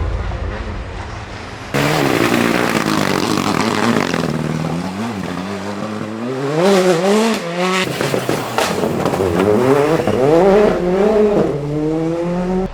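Rally cars at full throttle, engines revving up in pitch through the gears with a sharp drop at each shift. The sound changes abruptly a couple of times as the footage cuts from one car to another.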